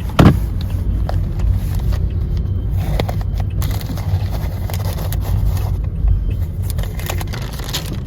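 Steady low rumble of a car on the road, with one sharp knock just after the start and a few faint clicks.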